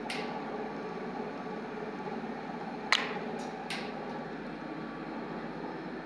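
Lift hoist electric motor running with a steady hum, with one sharp click about three seconds in and two fainter clicks soon after.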